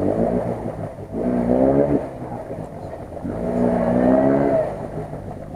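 Lada Niva engine revving hard in three rising surges as the 4x4 pushes through deep water.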